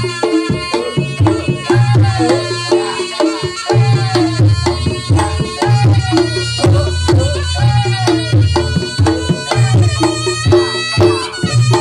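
Reog Ponorogo ensemble music: kendang drums and a repeating gong-chime figure keep a steady beat while a slompret shawm plays a bending, reedy melody over them.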